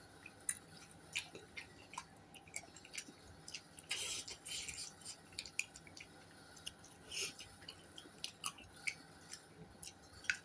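A person chewing and eating close to the microphone: irregular wet mouth clicks and smacks, with short louder bursts about four seconds in and again near seven seconds.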